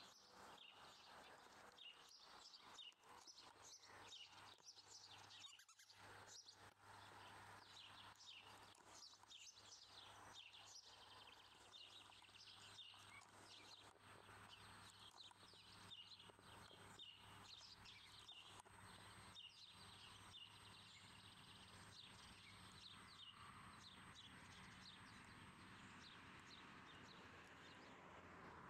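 Near silence with faint birdsong in the background: many short, high, falling chirps throughout, over a faint low steady hum and scattered light ticks in the first half.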